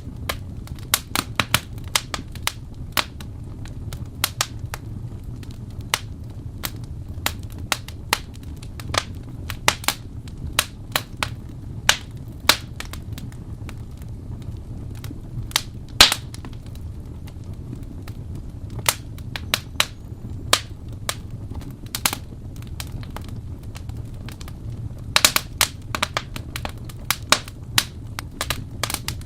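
Wood fire in a fireplace crackling: irregular sharp pops and snaps over a low steady rumble, with one loudest pop about 16 seconds in and a quick flurry of snaps near the end.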